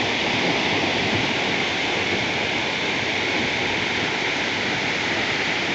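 Waterfall falling into its pool: a steady, loud rush of water that does not change.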